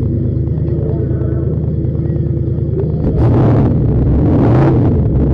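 Turbocharged V8 drag-car engine idling at the starting line with a lumpy, uneven beat, then growing louder about three seconds in, with two short bursts of hiss about a second apart.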